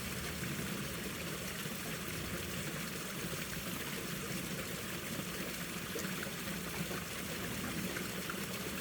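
Mountain stream in winter flowing and trickling steadily over rocks, a constant rush of water with small splashes.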